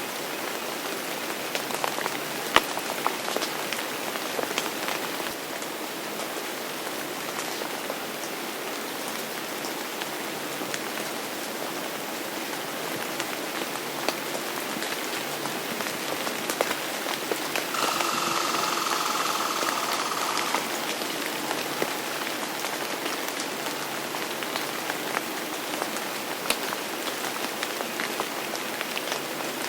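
Steady rain falling on a surface, with individual drops ticking through it. About two-thirds of the way in, it swells for a couple of seconds with a faint steady tone.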